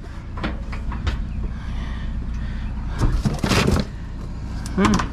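Plastic buckets clattering and knocking as a dumpster is rummaged through, with a loud cluster of knocks about three seconds in. Under it runs a steady low hum of an idling vehicle engine.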